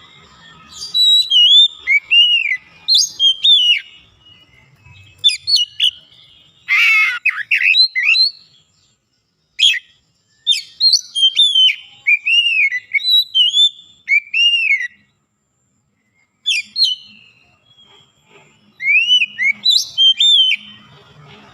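Oriental magpie-robin singing: clear whistled phrases of arching, down-slurred notes repeated with short pauses, with a burst of harsh scratchy notes about seven seconds in.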